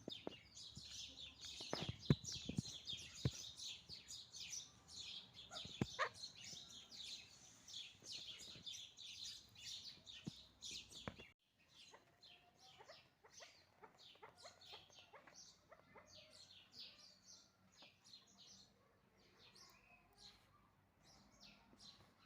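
Chukar partridges calling: dense, rapid chirping with a few sharp knocks in the first seconds. About halfway through it cuts off abruptly and gives way to sparser, quieter calls.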